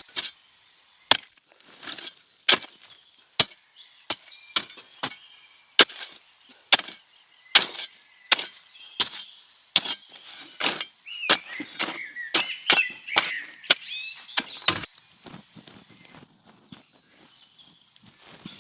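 Repeated chopping blows, about one a second, that stop about 15 seconds in, with birds chirping throughout.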